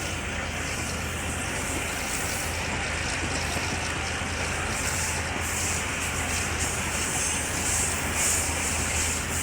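Passenger train running at speed, heard from on board: a steady rumble of the carriage on the track with a constant hiss over it.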